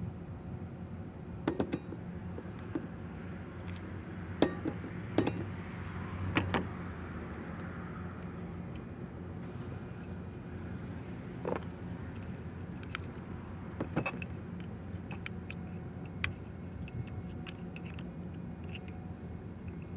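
Scattered sharp clicks and knocks, a dozen or so spread irregularly, over a steady low hum: tools and parts being handled during repair work.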